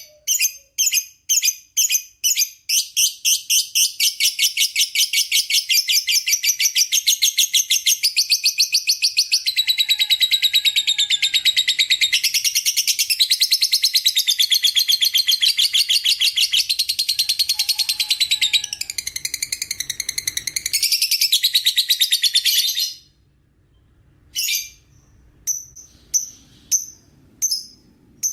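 Lovebird singing its long 'ngekek' chatter: rapid, high, repeated notes that speed up into one continuous trill lasting about twenty seconds. The trill stops abruptly, and a few separate chirps follow near the end.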